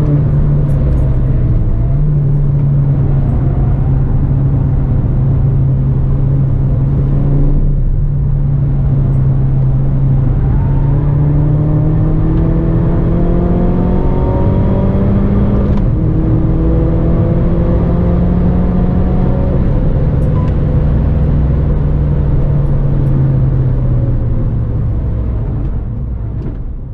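Mini Cooper's engine heard from inside the cabin at track speed, with road and wind noise. It pulls through a gear with rising revs, drops sharply on an upshift about sixteen seconds in, then the revs fall off as the car slows, and the sound fades out near the end.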